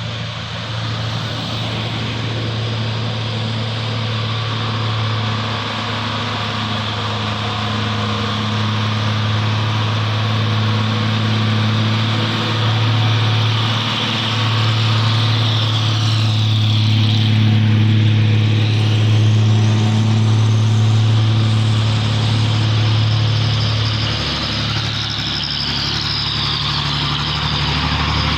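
Heavy cargo trucks' diesel engines labouring up a steep climb: a steady low engine drone with road and tyre hiss. It swells as the trucks pass close, about halfway through and again near the end.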